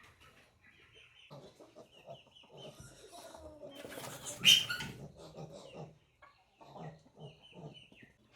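Chickens clucking, with repeated short high peeping calls and a loud, sharp burst about halfway through.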